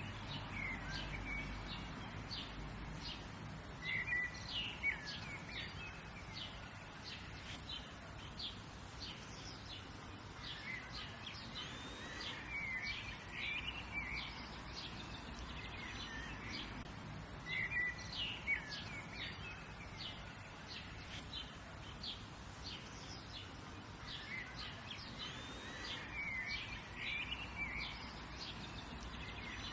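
Several wild birds chirping and calling over a steady outdoor background hiss: a constant run of short high chirps, with louder bursts of twittering calls a few times.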